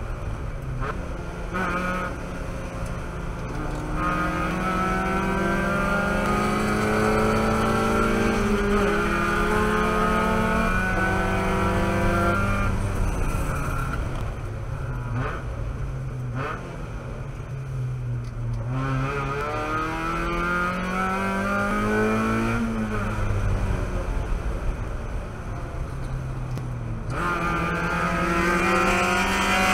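Mazda Miata race car's four-cylinder engine heard from inside the cockpit at race pace, its pitch climbing steadily under throttle and dropping off sharply when the driver lifts or brakes, several times over. Wind and road noise run underneath.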